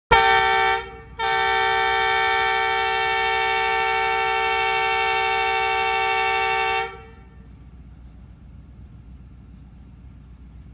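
Pakistan Railways ZCU-20 diesel locomotive's multi-tone horn sounding a departure signal: a short blast, then a long steady blast of about five and a half seconds that stops sharply. A low steady rumble remains afterwards.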